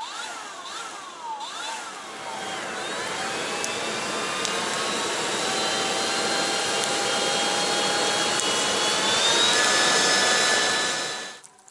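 A steady mechanical whooshing noise, like a jet engine or vacuum cleaner running, with thin whining tones that slowly rise in pitch as it grows louder, cut off suddenly near the end. It opens with quick up-and-down warbling glides.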